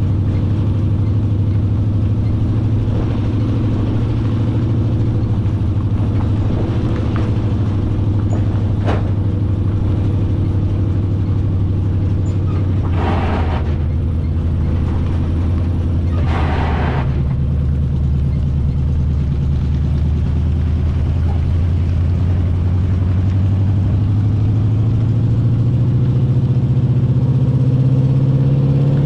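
1980 Chevy K20's 350 small-block V8 running steadily through its glasspack exhaust while hauling a load, its note shifting about two-thirds in and rising in pitch near the end as the truck accelerates. Two brief whooshes are heard about halfway through.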